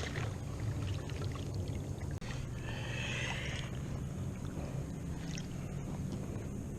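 Water trickling and lapping around a kayak over a steady low rumble, with a brief high warbling sound about three seconds in.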